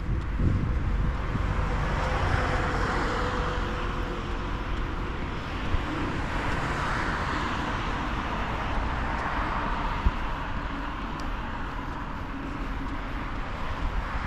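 Road traffic: vehicles passing one after another, each swelling and fading, over a steady low rumble.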